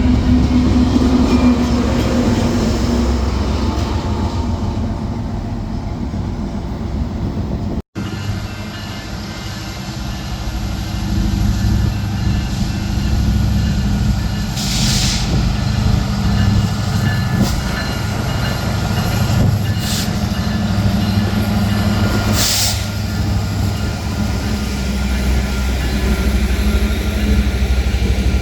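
Train running close by: a steady low rumble with an engine hum underneath. The sound breaks off for an instant about eight seconds in, and a few short hisses come later.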